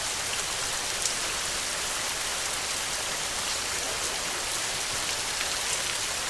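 Steady rain falling: an even, dense hiss with a few separate drop ticks standing out, one a little louder about a second in.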